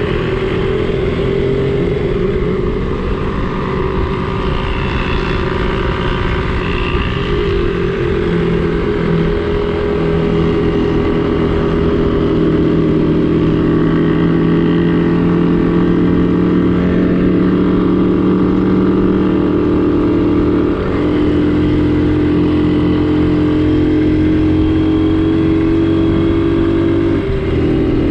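Small vintage Honda motorcycle engine running steadily while riding, its note slowly rising and falling, with two brief dips in the second half.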